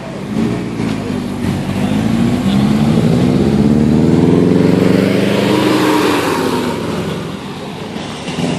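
A Subaru's engine revving hard as the car accelerates past. The engine note climbs, is loudest about halfway through, then drops in pitch and fades as the car moves away.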